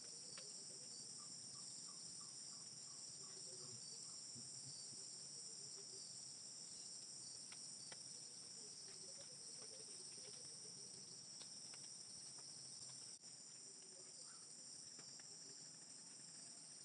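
Steady chorus of crickets and other night insects, a continuous high trilling, with faint runs of low chirping calls from another animal now and then.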